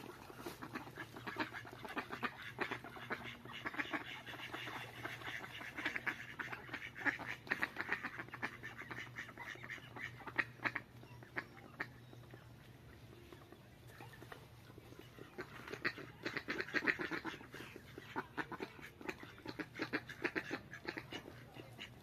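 Ducks quacking in rapid strings of calls: one spell through roughly the first eleven seconds, a lull, then another from about fifteen to twenty-one seconds in.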